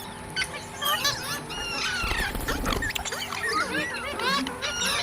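Parrots chirping and squawking, many short rising-and-falling calls overlapping one another.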